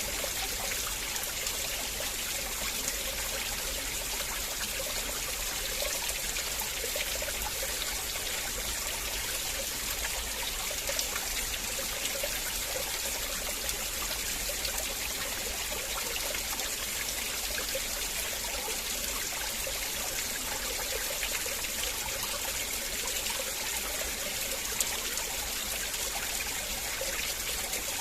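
River water flowing and trickling steadily over rocks, an even rush with a light burbling.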